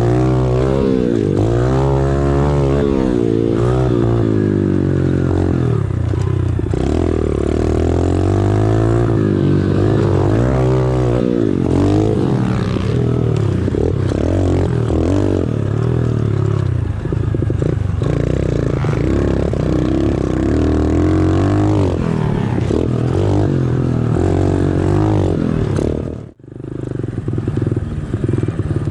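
Pit bike's small single-cylinder four-stroke engine being ridden hard, its pitch rising and falling again and again as the throttle opens and closes. Near the end the sound cuts out abruptly, then the engine sound returns more evenly.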